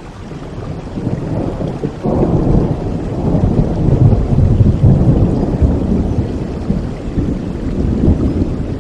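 Rolling thunder over steady rain: a deep rumble swells suddenly about two seconds in, is loudest midway and slowly fades.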